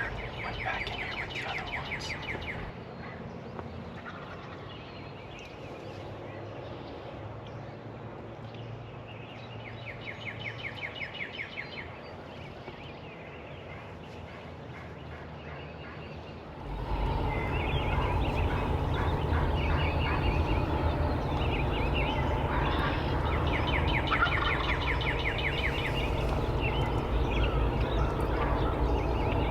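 Wild turkey toms gobbling: one gobble at the start, another about ten seconds in, then repeated, overlapping gobbles from several birds through the second half. A steady low rumble comes up a little past halfway.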